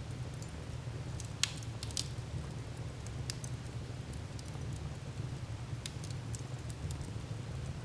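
Wood fire burning in a fireplace: a steady low rumble with scattered sharp crackles and pops, the loudest about a second and a half in and again at two seconds.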